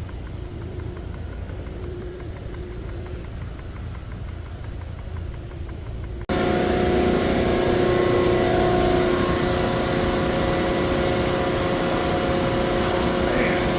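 A steady low engine rumble. About six seconds in it cuts abruptly to a louder steady drone of running machinery, with several steady humming tones.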